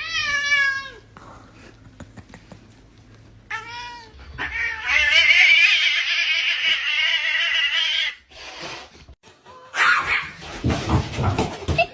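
A cat meowing: a short meow at the start, another about three and a half seconds in, then one long drawn-out call lasting about four seconds. Near the end comes a stretch of noisier, rougher sound.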